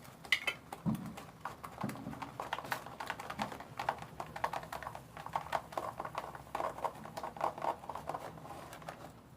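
Slime being kneaded and stirred by hand, a rapid, uneven run of small clicks and squelching pops as the activated slime starts to form.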